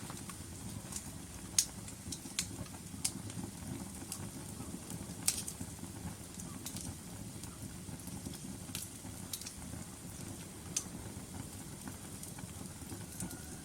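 Logs burning in a fireplace: a steady low rumble of flames with sharp, irregular crackles and pops, the loudest about a second and a half in and again about five seconds in.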